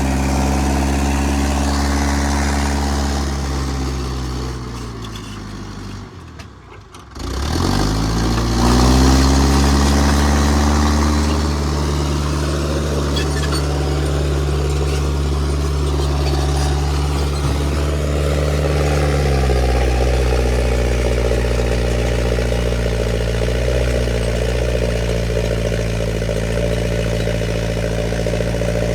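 International 125 crawler loader's engine running under load, its note sinking and fading almost away about six seconds in, then climbing back up in revs and running steadily, settling a little lower about two-thirds of the way through.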